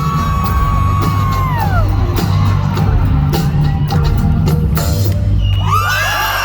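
Loud concert music with a heavy, steady bass and a held high note that falls away about two seconds in. Near the end a crowd breaks into screaming and cheering.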